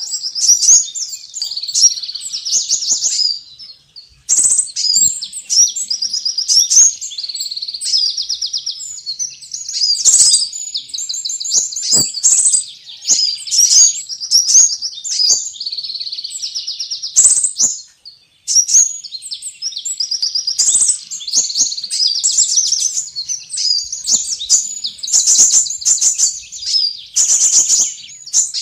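Sunbird song used as a bird-trapping lure call: rapid, high-pitched chattering twitters and trills in repeated phrases, with short breaks about four and eighteen seconds in.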